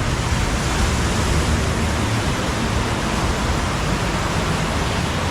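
Steady, loud rush of water with no breaks or distinct splashes.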